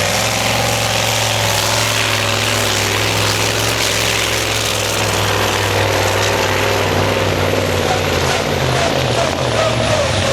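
Competition pulling truck's engine running flat out under heavy load during a truck pull, a loud steady drone that wavers slightly in pitch near the end.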